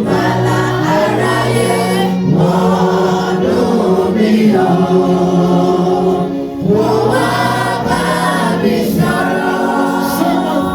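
A choir singing a gospel hymn over sustained music.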